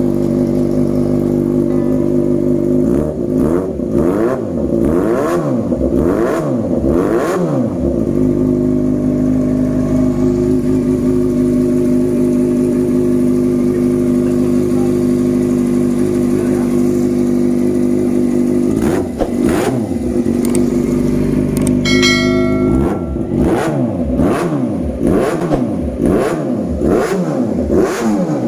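Yamaha XJ6's inline-four engine on an aftermarket exhaust, idling steadily and then revved in quick throttle blips. The blips come in two spells, one a few seconds in and another from about two-thirds of the way through, with a long stretch of steady idle between them.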